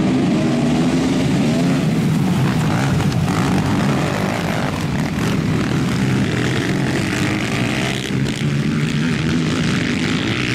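Engines of several quads and ATVs running together, a steady layered drone of engine noise with some rise and fall in pitch as they are revved.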